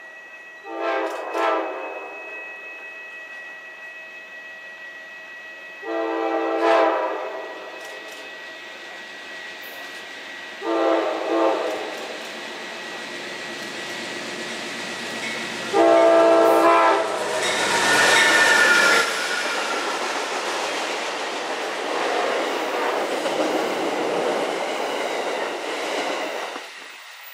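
Amtrak train's Nathan K5LA five-chime air horn sounding a string of blasts, two short ones, then longer ones spaced a few seconds apart, a warning for trackworkers. After the last blast the train passes with rushing wheel and rail clatter that fades near the end.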